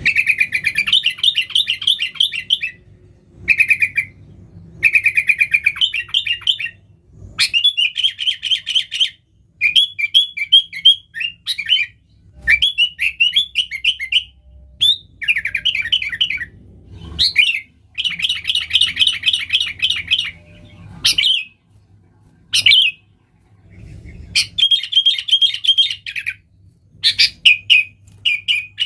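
Sooty-headed bulbul singing busily: bursts of quick, chattering notes in phrases of one to two seconds, separated by short pauses.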